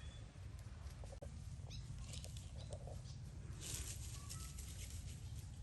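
Outdoor ambience: a steady low rumble with scattered rustling and clicks that thicken a little past the middle, and a few brief, faint high chirps.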